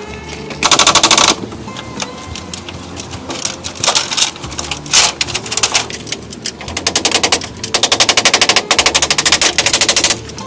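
Bursts of rapid, evenly spaced tapping: a short burst about half a second in, another near the middle, and a longer run of several bursts over the last few seconds.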